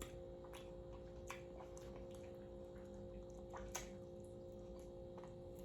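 Quiet room tone: a faint steady hum with a few scattered faint clicks and ticks.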